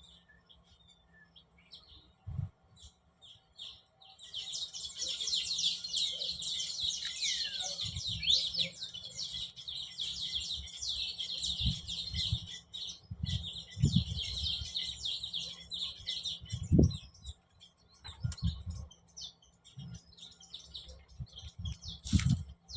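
A small songbird singing a long run of rapid high chirps and trills, starting about four seconds in and fading out a few seconds before the end. Now and then a short dull knock sounds underneath.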